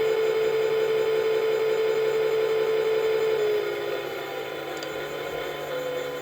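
Toy washing machine's small electric motor turning the drum with a steady whine. About three and a half seconds in it drops quieter and shifts slightly in pitch.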